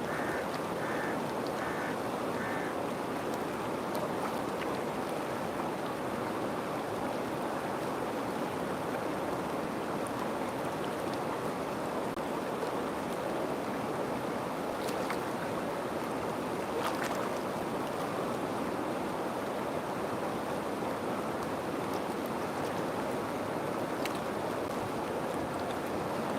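River water flowing steadily with an even rushing sound. In the first couple of seconds a few faint short high notes repeat over it.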